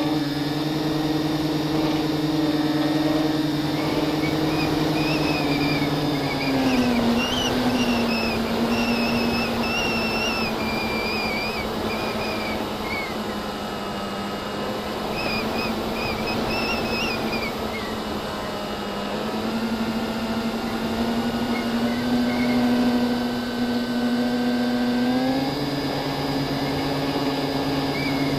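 FPV quadcopter's electric motors whining in flight. Their pitch holds steady, drops about a third of the way in and climbs back up near the end as the throttle changes.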